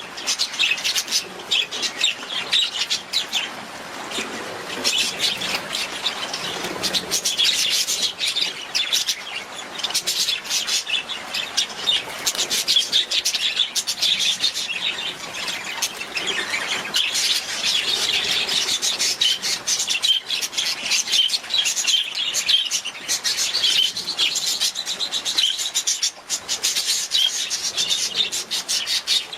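Budgerigars chirping and warbling together, a dense run of quick, high chirps with no break.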